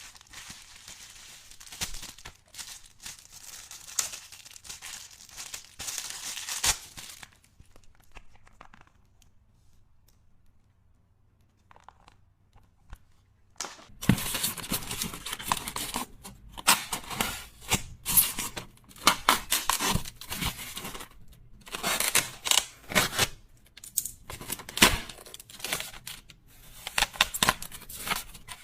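Packaging being handled and torn open, crinkling and tearing in irregular bursts. A quiet pause of several seconds comes in the middle, and the handling is busier and louder after it.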